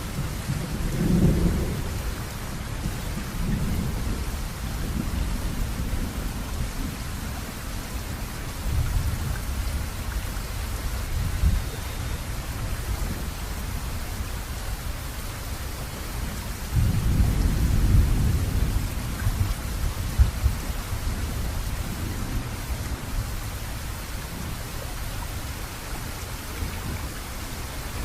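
Steady heavy rain hissing, with low rolls of thunder rumbling through it, loudest about a second in and again about two-thirds of the way through.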